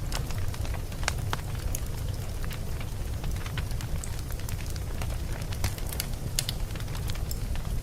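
Campfire burning: irregular sharp crackles and pops of burning wood over a steady low rumble.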